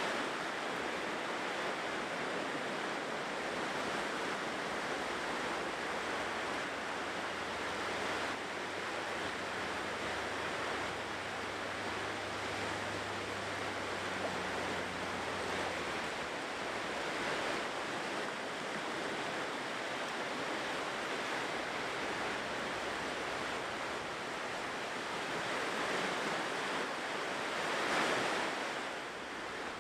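Ocean surf washing on a shore in a steady rush, swelling and easing as the waves come in, with the largest swell near the end.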